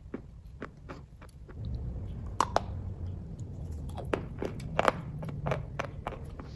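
Wet chewing and mouth clicks while eating kaju katli (cashew fudge): irregular sharp smacks and clicks, with a low rumble joining in about two seconds in.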